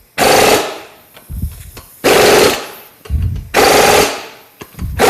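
Impact wrench driving lug nuts through a torque stick to final torque: three short hammering bursts about a second and a half apart, with another starting right at the end.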